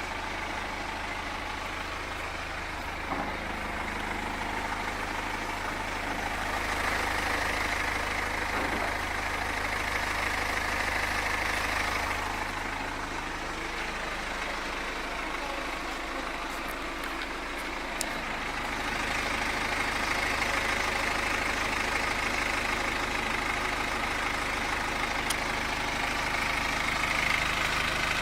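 BMW X3 F25's N47 2.0-litre diesel engine running near idle, growing louder twice, with a strange noise that is suspected to come from the timing chain.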